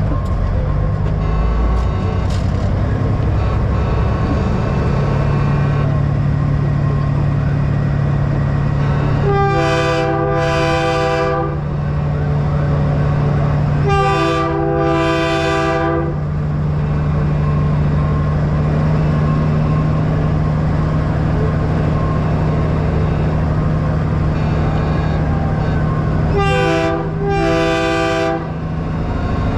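Big-rig diesel engine running steadily, overlaid by three pairs of loud multi-note air-horn blasts, each about a second long. The pairs come about nine, fourteen and twenty-seven seconds in.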